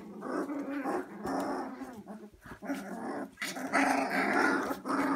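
Two-week-old Siberian husky puppies growling at each other as they play-fight, a string of short rough growls that is loudest about four seconds in.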